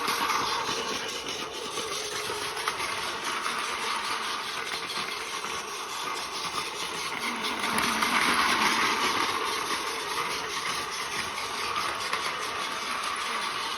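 Battery-powered Plarail toy train running on plastic track: a steady small-motor whir with wheel clatter, growing louder about eight seconds in as it passes close.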